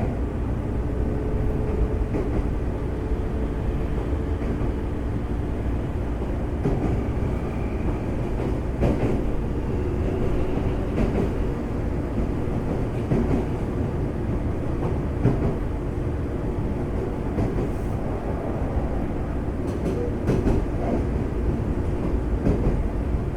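Interior running sound of a Semboku Rapid Railway 5000 series electric train moving along the line: a steady rumble of wheels on rail with a low hum, and occasional knocks over rail joints.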